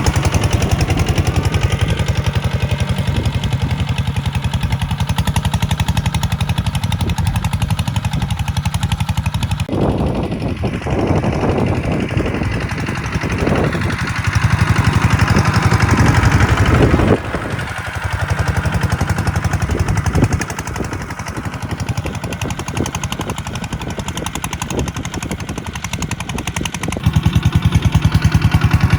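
Kubota tractor's diesel engine running with a rapid, even chugging beat. Its sound shifts about a third of the way in and again a little past halfway, and it grows louder near the end.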